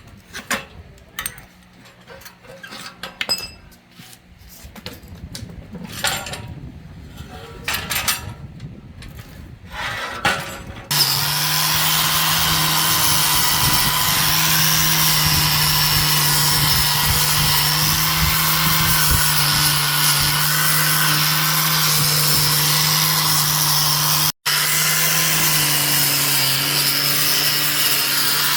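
Scattered clicks and knocks of hand work on metal parts. About eleven seconds in, a power tool starts and runs steadily with a hum under a loud hiss, cutting out for an instant near the end before carrying on.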